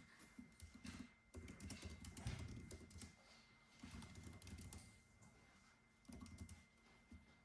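Computer keyboard typing, quiet and in irregular bursts of key clicks: a longer run from about a second in and another shorter run near the end.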